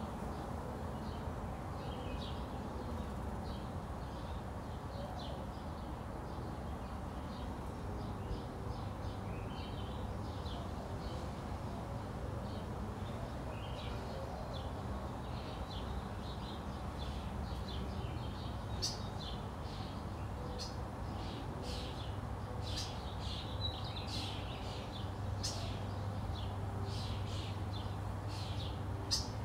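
Small birds chirping over a steady low rumble of outdoor background noise, with a string of short sharp ticks in the second half.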